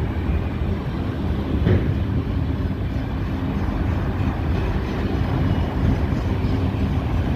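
Freight train cars rolling slowly past: a steady rumble of wheels on rail, with one sharper knock just under two seconds in.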